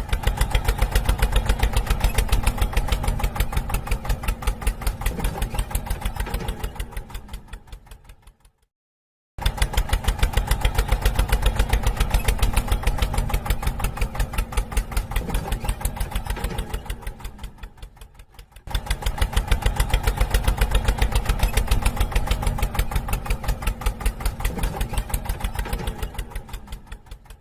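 Small engine chugging in a fast, even beat. It slows and dies away, then starts again, about every nine seconds, three times over.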